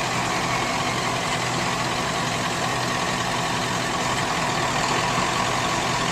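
Steady engine and road noise of a vehicle, heard from inside the cab, holding even throughout.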